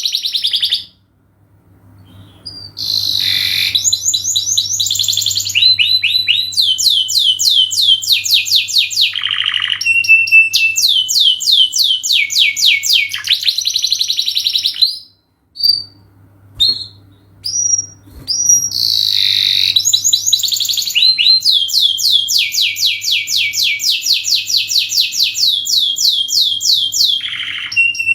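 Domestic canary singing a long song of fast trills and rapidly repeated notes, breaking off briefly about a second in and again about halfway through, over a faint steady low hum.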